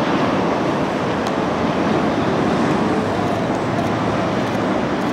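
Steady roar of a Boeing 777-200's jet engines as the airliner passes on its landing.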